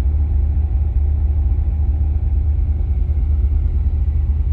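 LS V8 engine in a Porsche 951 idling steadily during a cold-start warm-up, a deep, even low rumble. The idle is leaning out and settling, though the owner doesn't think it has gone into closed loop yet.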